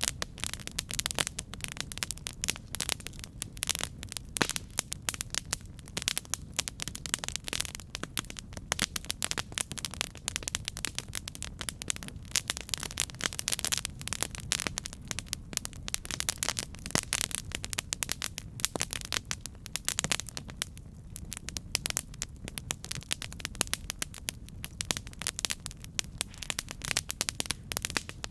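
Campfire burning: dense, irregular crackling and popping of burning wood over a steady low rumble of the flames.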